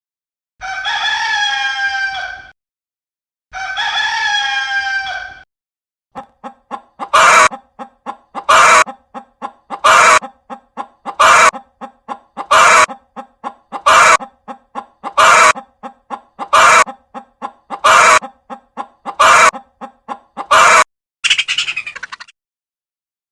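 Rooster crowing twice, each crow about two seconds long. It is followed by a long run of about eleven loud, harsh clucking calls, spaced roughly a second and a half apart with quicker soft clucks between them, and a shorter call near the end.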